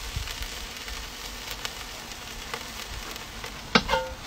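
Seaweed frying in hot oil in a wok, a steady sizzle. Near the end a wooden spatula knocks twice against the metal wok, which rings briefly, as stirring begins.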